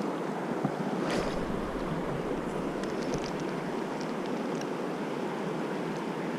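Mountain river rushing steadily over its bed, with a brief low rumble about a second in.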